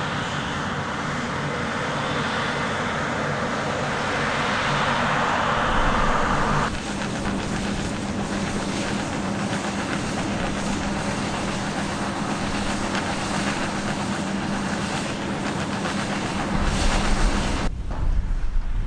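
Heavy diesel harvest machinery running steadily. The sound changes abruptly about a third of the way in, to a steadier low hum, and again shortly before the end.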